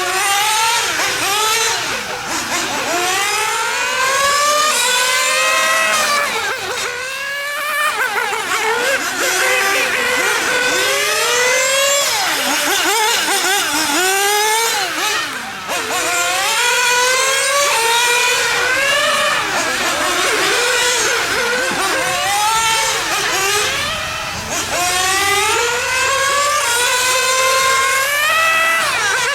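Nitro-engined RC GT cars lapping a track: their small glow engines repeatedly rev up in rising whines and drop off, several cars at once, overlapping.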